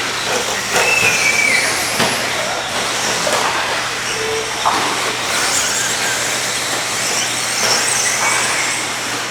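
Radio-controlled 2WD racing trucks running on the track: a continuous mix of high-pitched motor whines that slide up and down in pitch as the trucks speed up and slow, over a haze of tyre and track noise.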